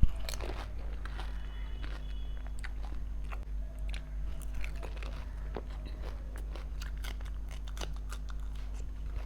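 Golgappa (pani puri) being bitten and chewed: the crisp fried puri shells crack and crunch between the teeth, many times over, with wet chewing in between, over a low steady hum.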